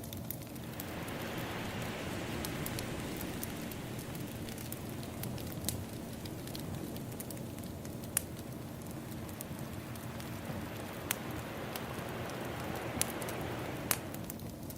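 Ambience track of a crackling wood fire with ocean waves washing: a rushing surge that builds about half a second in and ebbs near the end, with sharp pops and snaps of burning firewood scattered through it.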